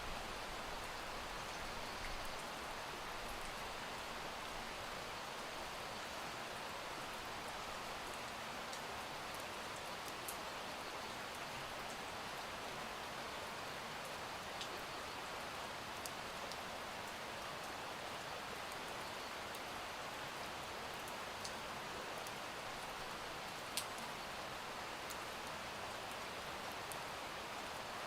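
Steady rain falling, an even hiss with scattered sharp ticks of single drops, one louder near the end.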